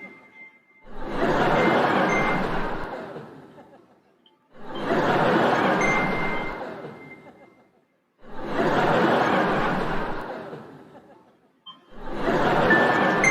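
A laughter sound effect played on a loop: four identical swells, each coming in quickly and fading out over about three seconds, repeating roughly every three and a half to four seconds.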